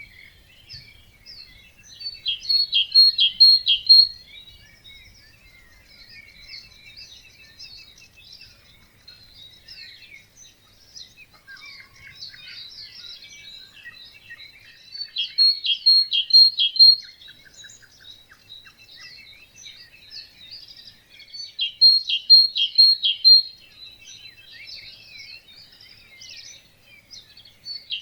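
A chorus of many birds singing. One loud nearby bird repeats a short song phrase of rapid repeated notes three times.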